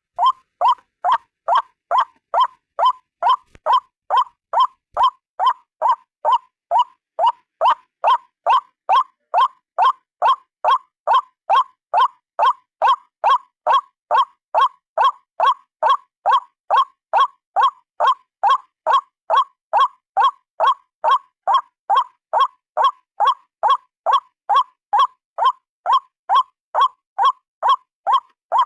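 White-breasted waterhen's repeated 'ruak' call: short croaking notes at a steady rate of about two and a half a second, looped without a break as a bird-trapping lure recording.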